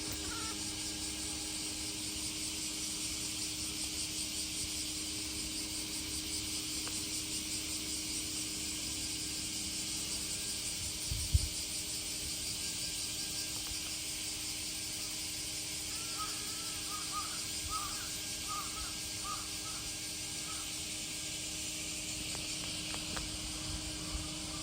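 Crows cawing in a run of short, repeated calls over the second half, over a steady high-pitched hiss of outdoor ambience. A single brief thump comes about halfway through.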